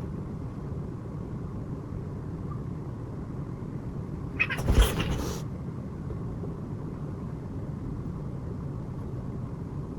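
A house cat lets out one short, angry hissing cry with a thump, about four and a half seconds in, as two cats scuffle. A steady low hum runs underneath.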